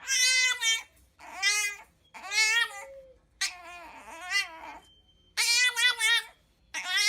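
Cat meowing over and over, about six drawn-out calls in a row, each under a second and wavering in pitch, with short pauses between them.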